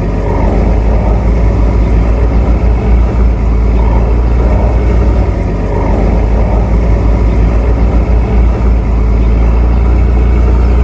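Tugboat's diesel engine running steadily with a heavy, low rumble.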